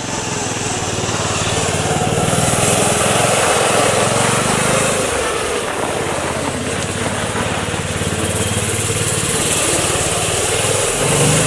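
An engine running steadily, with a broad hiss over it that grows stronger about two seconds in.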